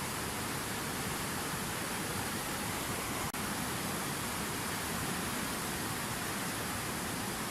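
Fountain waterfall: water falling and splashing in a steady, even rush, with a split-second dropout just over three seconds in.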